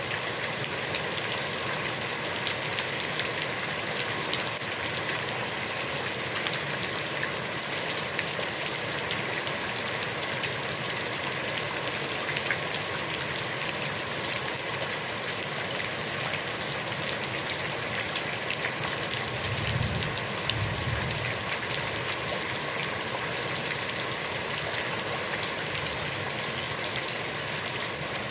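Heavy rain falling on a pond's surface: a steady hiss of countless drops splashing on the water. A brief low rumble comes about two-thirds of the way through.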